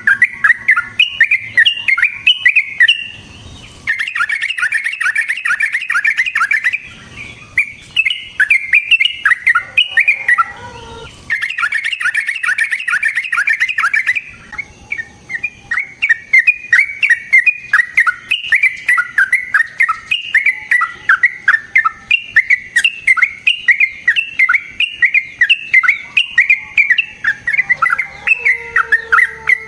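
Yellow-vented bulbul (trucukan) singing long, rapid, bubbly chattering runs, broken by a few short pauses.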